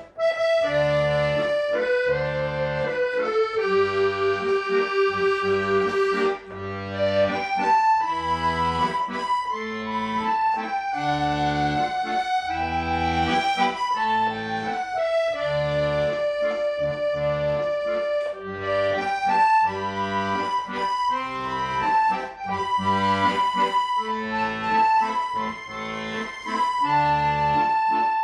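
Accordion playing a slow, sustained melody in G over a steady rhythmic bass-and-chord accompaniment.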